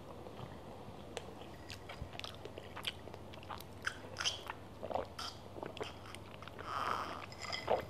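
Close-miked mouth sounds of eating mango sticky rice: soft chewing and scattered small clicks and smacks. About halfway through, she sips an iced drink through a straw.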